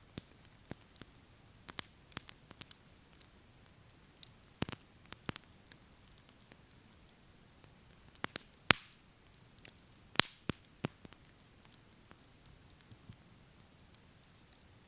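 Wood campfire crackling: scattered sharp pops and snaps at an irregular pace, with two louder snaps a little past the middle.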